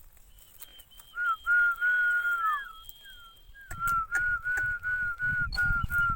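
Whistling: one long held note, then a string of short repeated notes, over a low rumbling background.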